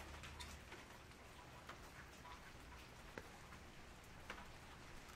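Faint rain: single raindrops tapping on an umbrella about once a second over a soft, steady hiss of light rain.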